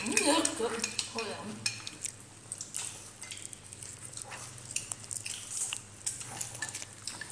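Scattered light clicks, taps and scrapes of tableware, following a brief voice at the start.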